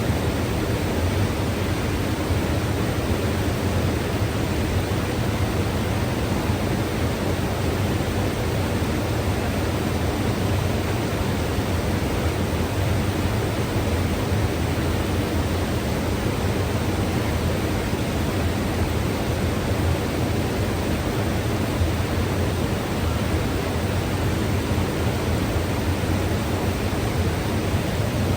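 Mountain river rushing over rocks: a steady, unbroken roar of water with a deep low rumble.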